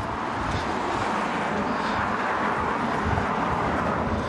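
A vehicle passing: a steady rushing noise that builds, is loudest about two seconds in, and eases off a little near the end.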